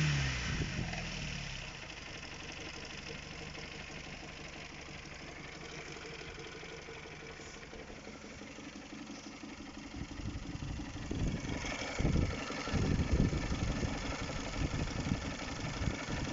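Honda K20A 2.0-litre inline-four coming down off a rev and idling, with a knock in the engine; the engine sound grows louder and the knocking stands out more from about ten seconds in.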